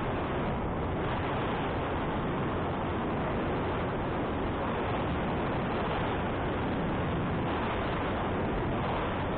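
Steady wind noise rushing over the microphone of a moving motorcycle, with the bike's engine running underneath it.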